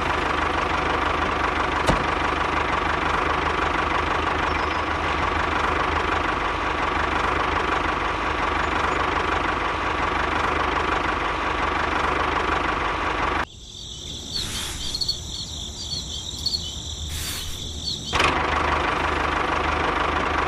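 Steady motor running with a constant whine and low hum. About 13 seconds in it cuts off to a quieter stretch with high chirping, and the running resumes about 18 seconds in.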